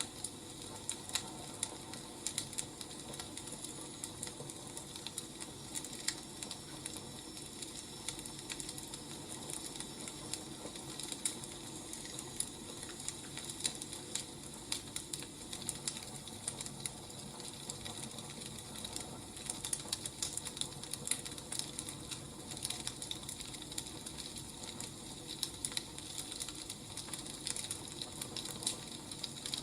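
Wood fire crackling: irregular sharp snaps over a steady soft hiss.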